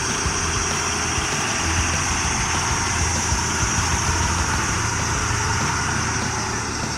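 A motor vehicle engine running steadily: a low hum under a steady high hiss.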